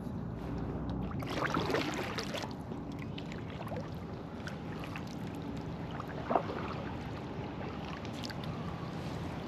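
Kayak paddle strokes: water splashing and dripping off the paddle, with a louder splash about one and a half seconds in and a short knock or splash near the middle, over a steady low rumble.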